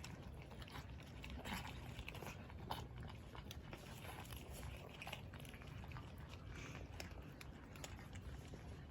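Cats eating, with irregular small crunches and clicks of chewing over a low steady rumble.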